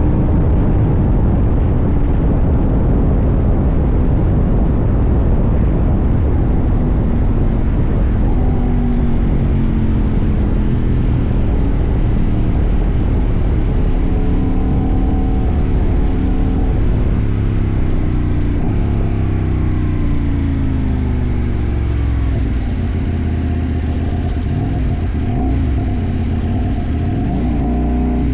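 CFMoto 800NK's 799 cc parallel-twin engine running under way, heard from the tank, with low wind rumble. Its pitch drops steadily over the middle as the bike slows, then climbs again near the end as it accelerates.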